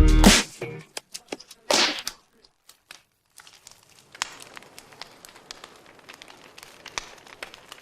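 Loud music cuts off just after the start, followed by a few clicks and a short swish. After a moment of near silence, a faint crackling with small irregular clicks sets in and runs on.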